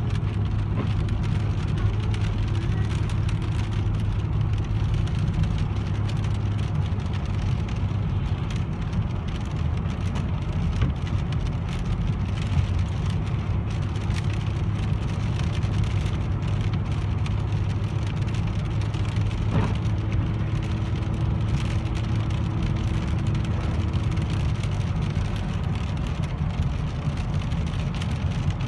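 Car cabin noise while driving in the rain: a steady low engine and road hum, with rain on the car.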